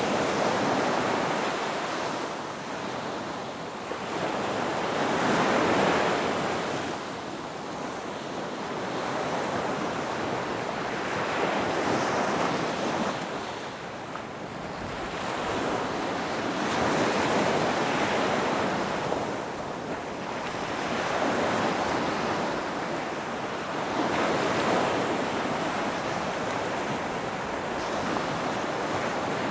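Ocean surf breaking on a beach, the wash swelling and fading in slow waves about every five or six seconds.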